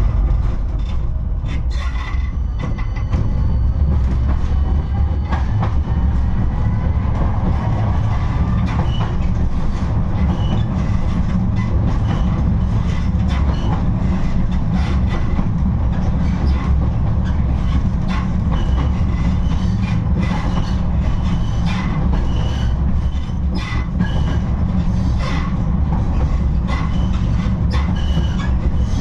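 Type 71-628-02 tram running along the track: a steady heavy rumble with repeated clicks and knocks from the wheels over the rails. A faint rising whine comes in about six to nine seconds in.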